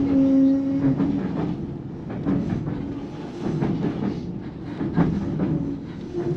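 Vintage narrow-gauge passenger train running along the track, its wheels clattering and knocking over the rails. A steady tone sounds through the first second or so, then the rattling carries on.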